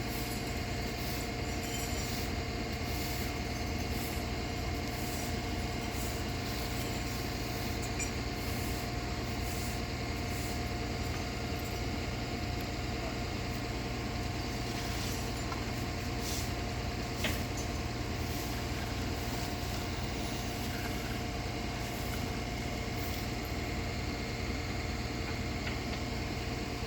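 Recovery truck's engine running at a steady idle while it powers the winch. One short sharp click about seventeen seconds in.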